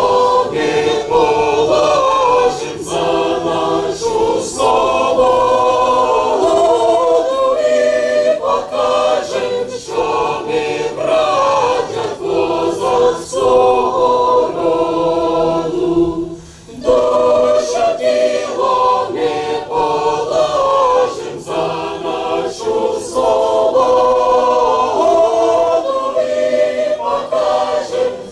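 A group of voices singing a national anthem together, with a brief pause for breath about sixteen seconds in.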